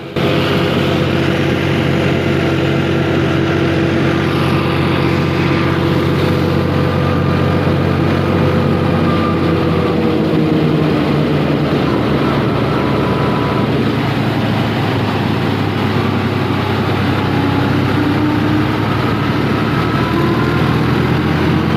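Fiat 480 tractor's three-cylinder diesel engine running steadily under load, driving a threshing machine. A whining tone in the drive sinks in pitch about ten seconds in.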